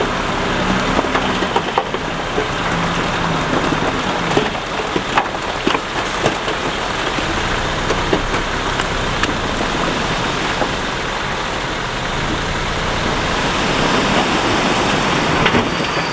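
Heavy earthmoving machinery running steadily, with a low engine hum and many scattered small clicks and knocks, typical of rock and dirt being pushed or tipped.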